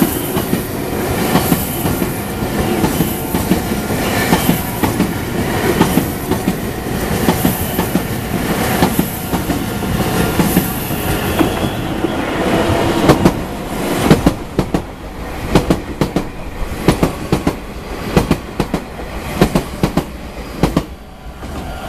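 Meitetsu electric train running past close by, with continuous rumbling wheel noise; in the second half the wheels' clacks over the rail joints stand out separately, about one or two a second.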